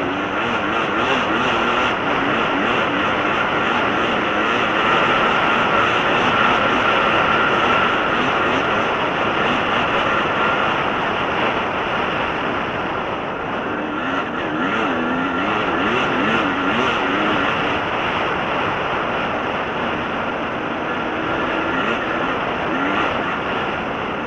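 Dirt bike engine running at a steady pace along a sandy track, its pitch wavering a little with the throttle, over a continuous rush of wind and tyre noise.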